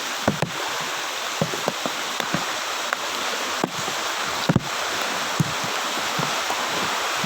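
Floodwater sloshing with a steady rush, broken by irregular sharp splashes from someone wading through water about 30–40 cm deep.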